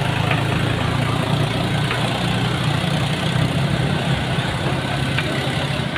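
A vehicle engine idling steadily, with a constant rushing noise behind it.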